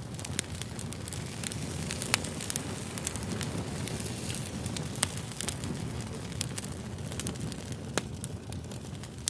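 Fire crackling: a steady low rush with frequent sharp pops, the loudest about two, five and eight seconds in.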